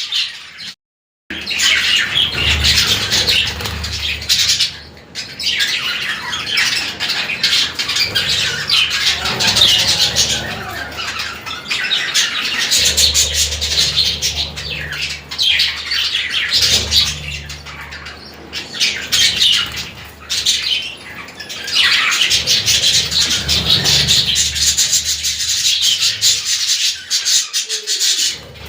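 A pair of budgerigars chattering, a dense run of quick high chirps and warbles, with a brief cut to silence about a second in.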